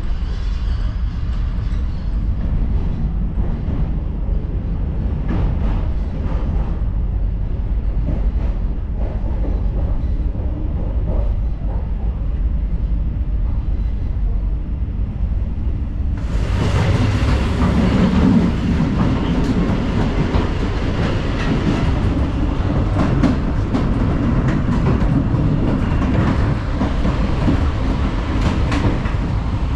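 DPL-1 diesel train running along the line, a steady low rumble with scattered clatter from the wheels. About halfway through it suddenly becomes louder and brighter.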